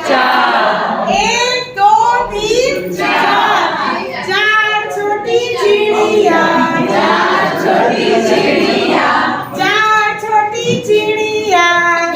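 Group of children singing a Hindi counting rhyme together, with a woman's voice among them.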